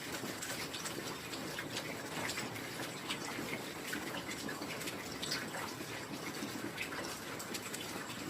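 Steady heavy rain, an even hiss of falling water with many small irregular drops pattering and ticking on top.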